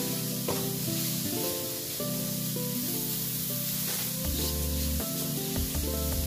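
Chopped spinach sizzling in a hot nonstick frying pan as it is stirred with a wooden spatula, with background music playing over it.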